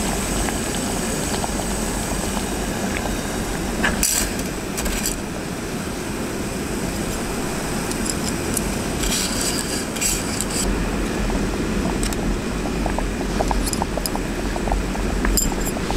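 Cookware and utensils clinking now and then over a steady hiss, in bursts about a quarter of the way in, around two thirds of the way through, and near the end.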